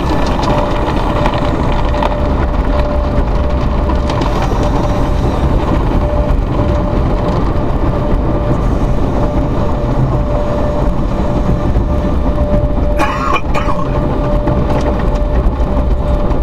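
Automatic car wash working over the car: a loud, steady rush of water spray and machinery with a constant hum running through it, and one short higher-pitched sound about 13 seconds in.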